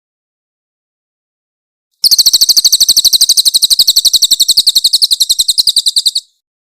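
Crested jay (cililin) giving a loud, rapid rattling call: a fast, even string of high notes at about ten a second, starting about two seconds in and lasting about four seconds.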